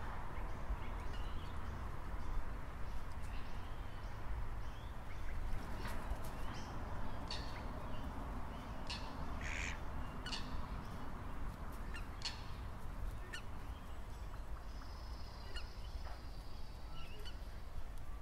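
Birds calling: a scatter of short, sharp high calls, a louder one about nine and a half seconds in, and a longer high trill around fifteen seconds, over a steady low rumble.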